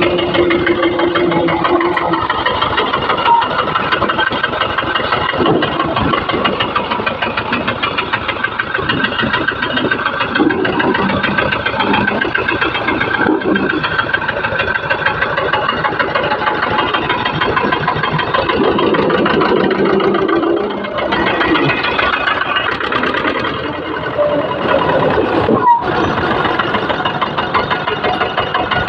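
An old tractor's engine running steadily at idle, with a rapid, even firing beat.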